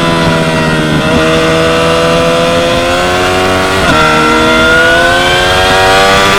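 Yamaha R6 599 cc inline-four sport bike engine accelerating hard, its pitch climbing steadily, with two quick upshifts about a second in and just before four seconds, each dropping the revs before they climb again.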